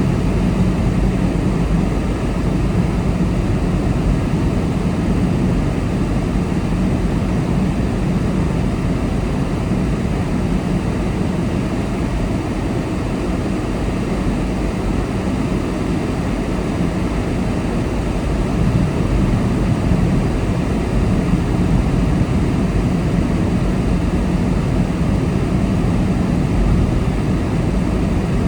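Steady road noise of a car driving at speed: tyre rumble and engine hum with a low, even drone.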